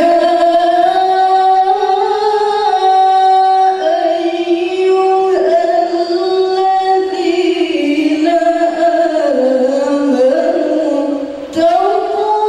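A woman reciting the Quran in the melodic tilawah style, holding long ornamented notes that step down in pitch over several seconds. She breaks off briefly near the end, then starts a new phrase on a higher note.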